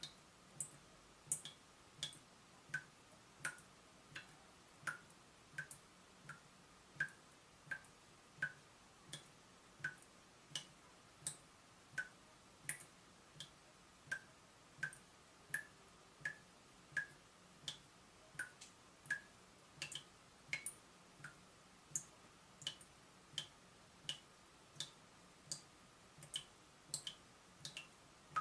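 Water dripping from a leaking tap: a steady run of short plinks, about three drops every two seconds, some a little louder than others, over a faint hiss.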